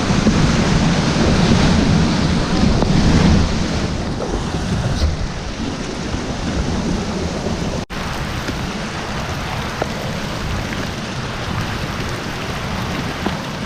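Wind buffeting the microphone over a steady wash of falling rain and hail. The sound drops out for an instant about eight seconds in and is a little quieter afterwards.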